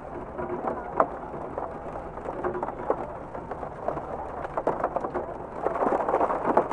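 Steady rain falling, with many sharp drops and splashes pattering through it, and a fuller, louder surge of rain noise near the end.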